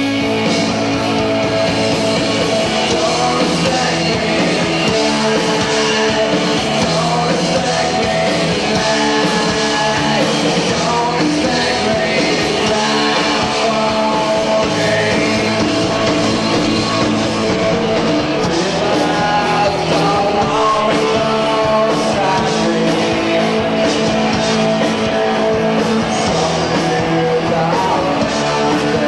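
A live rock band playing at full volume: distorted electric guitar, bass and drums with a singing voice. It is heard through an audience cassette recording of a club show.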